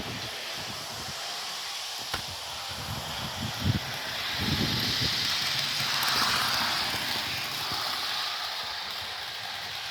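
Electric model Hiawatha locomotive running on its track: a motor whir with light rail clatter that grows louder as it comes by, is loudest about six seconds in, then eases off. It runs with a slight hobble from a groove worn in the brass of its rear geared driver.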